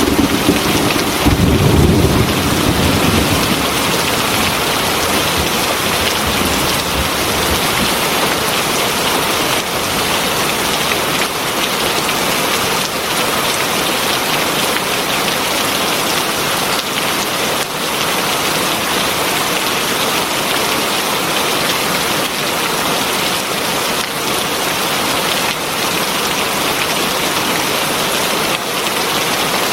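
Heavy rain falling steadily in a dense, even hiss. A low roll of thunder dies away in the first few seconds.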